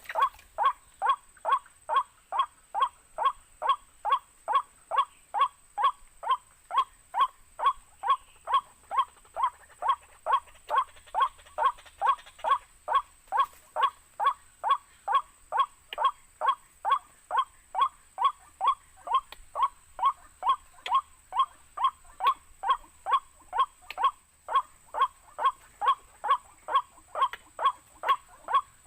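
White-breasted waterhen 'kwak' calls repeated at a very even pace, a little over two notes a second, played from a speaker as a trapping lure.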